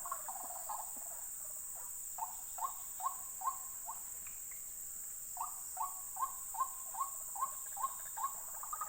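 White-breasted waterhen calling: two runs of short, rising notes, about two and a half a second, the first of five notes and the second of nine, starting about two and five seconds in. A steady high insect drone runs underneath.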